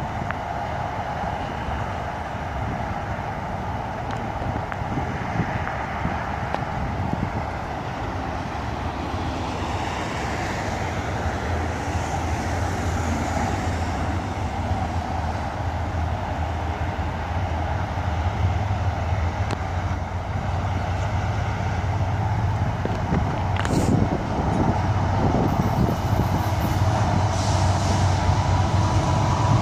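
Diesel freight locomotives approaching, a steady engine rumble mixed with road-traffic noise, growing slowly louder as the train comes closer.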